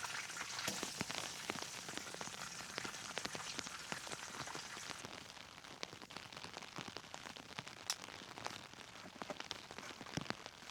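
Steady rain with many scattered sharp ticks and crackles. The high hiss thins out about halfway through.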